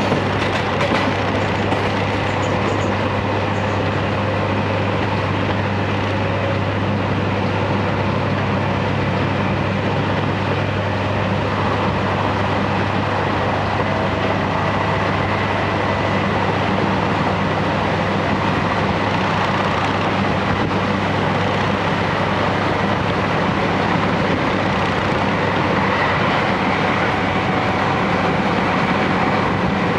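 Steady running noise inside a JR Hokkaido Series 711 electric train car: wheels rumbling on the rails with a constant low hum.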